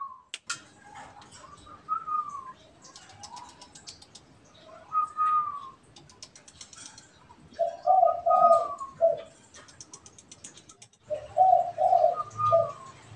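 Spotted doves cooing back and forth in phrases. Higher, falling coos alternate with lower, pulsed coo phrases about 8 seconds and 11 seconds in, as two birds answer each other. Faint rapid high chirping or ticking runs underneath.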